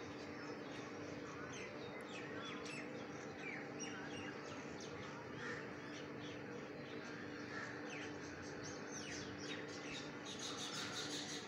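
Small birds chirping on and off in short, quick falling notes, with a rapid high-pitched chatter near the end, over a steady low hum.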